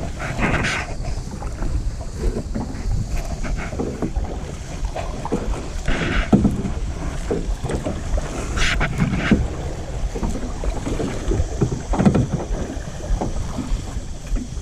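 Kayak paddle splashing in rough, choppy lake water, with four louder splashes a few seconds apart and small knocks of water between them, over a steady rumble of wind on the microphone.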